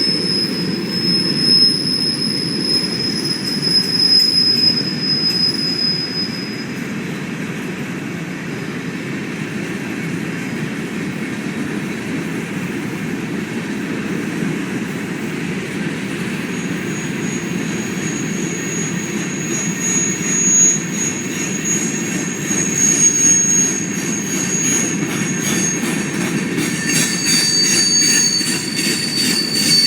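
Freight train cars rolling past with a steady rumble. High wheel-squeal tones come and go: one for the first several seconds, then a higher one from about halfway in, with another starting near the end.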